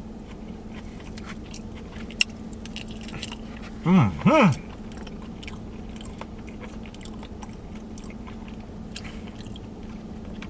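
A person chewing food close to the microphone, with small wet mouth clicks, and two short hummed 'mm' sounds of relish about four seconds in. A steady hum runs underneath.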